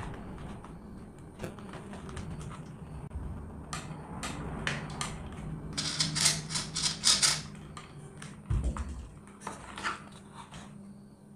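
Irregular clicks, taps and scrapes of small hard parts being handled, with a quick run of sharp scratchy strokes about six seconds in and a dull thump soon after.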